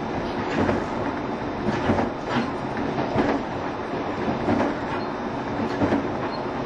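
JR Shikoku 7200 series electric train running at speed: a steady rumble with the wheels clacking over rail joints every half second or so.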